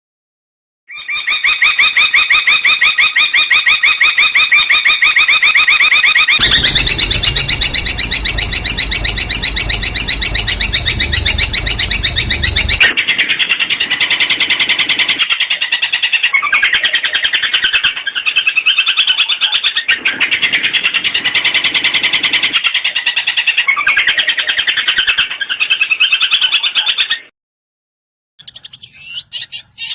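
Long-tailed shrike singing: fast, evenly repeated sharp notes, switching about six seconds in to a harsher, faster rattle, then from about thirteen seconds to rapid chattering phrases a second or two long, stopping abruptly near the end.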